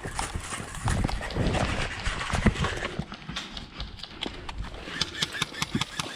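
Footsteps of a player moving fast across rough ground close to the microphone, with rustling of clothing and gear. The sound starts abruptly, is loudest for the first couple of seconds, then eases.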